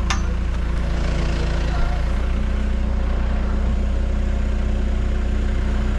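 Backhoe's diesel engine running steadily, its pitch shifting slightly about two seconds in.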